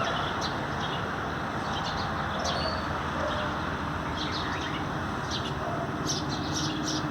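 Small birds chirping: short, high chirps scattered throughout, coming thicker near the end, over a steady background hum.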